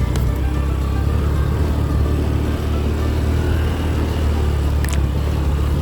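Motorcycle engine running at a steady pace with a low rumble while riding a dirt trail.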